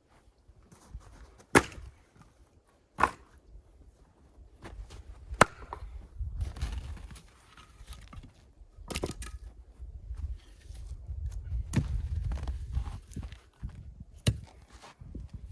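Six sharp knocks, a couple of seconds apart, with rustling handling noise in between.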